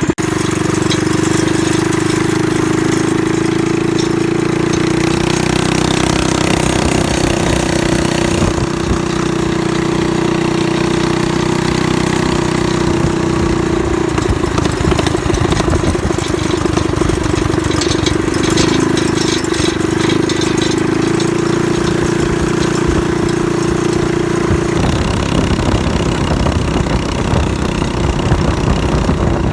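Predator 212 single-cylinder engine of a mini bike with a stage one kit (aftermarket air filter and exhaust, governor removed) running hard during a ride. The engine note holds steady and shifts in pitch a few times as the speed changes.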